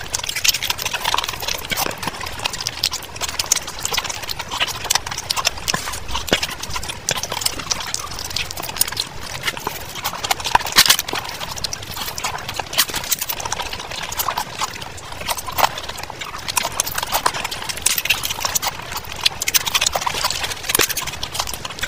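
Close-miked chewing and lip-smacking of someone eating rice and fried fish by hand: a dense, continuous run of quick small clicks.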